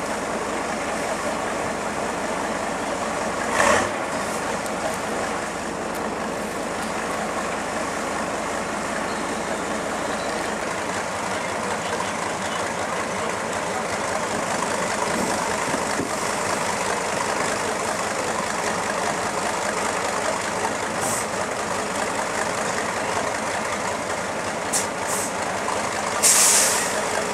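Off-road trial truck's diesel engine running steadily, with two short hisses of air-brake air being released, one about four seconds in and one near the end.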